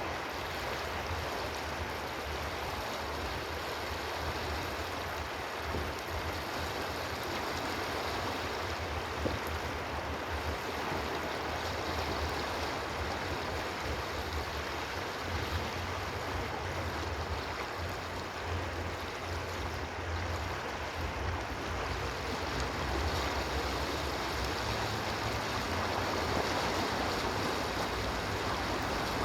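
Steady rush of flowing water, like a stream, with a low rumble underneath.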